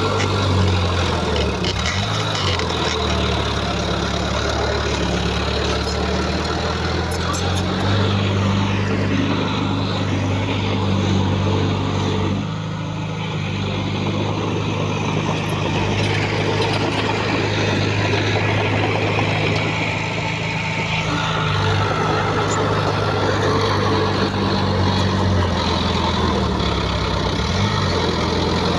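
Heavy diesel engine of earthmoving machinery running steadily, its pitch shifting up and down several times as the load changes, with a brief dip in loudness about twelve seconds in.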